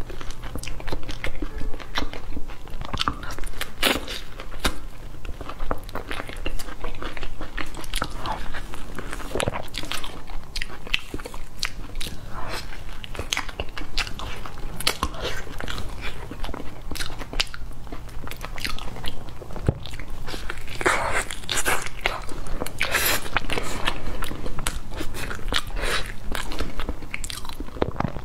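Close-miked mouth sounds of a person eating soft durian flesh: biting and chewing with many small, irregular clicks and smacks.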